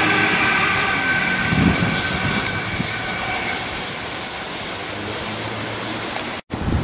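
Electric suburban passenger train running along the line and moving away, a steady rumble with a thin high whine over it, with wind on the microphone. The sound cuts off sharply for an instant near the end.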